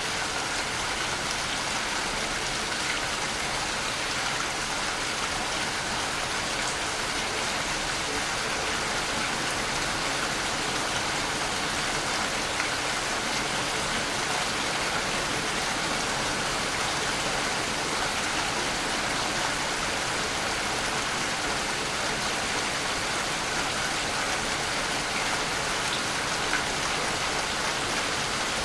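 Waterfall: a steady, unbroken rush of falling water splashing.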